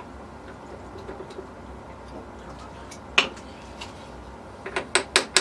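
Steel transmission parts knocking and clinking together as they are handled and fitted: one sharp knock about three seconds in, then a quick run of clinks near the end.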